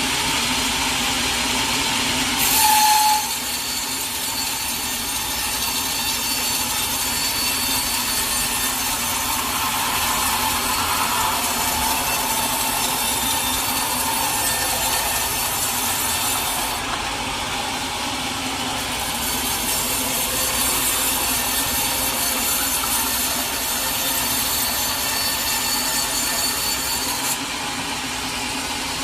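Sawmill saw cutting through a log over the steady hum of its motor. A brief louder burst comes about three seconds in, as the high sawing sound starts. The cutting sound drops away for about two seconds in the middle, then runs on until near the end.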